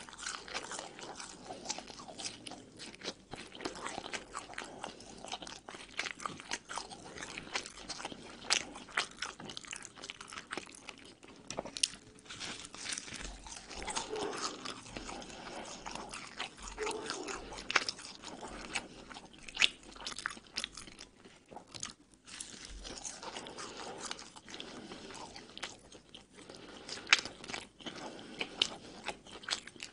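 Close-miked biting and chewing of Egyptian baladi hawawshi, a baked flatbread stuffed with spiced minced meat, its crisp crust crunching in irregular crackles with each bite and chew.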